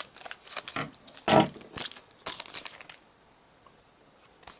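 Foil booster pack wrapper crinkling and being torn open, a quick run of crackles with the loudest about a second and a half in, dying away after about three seconds.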